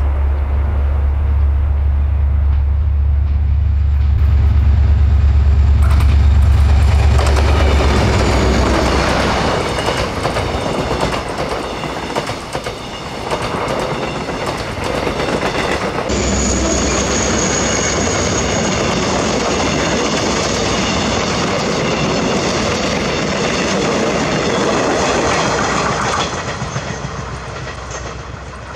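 A diesel locomotive hauling passenger coaches passes close by. The engine's deep hum is strongest for the first several seconds. Then the coaches' wheels rumble and clack over the rail joints, with a thin high whine joining about halfway, before the train fades away near the end.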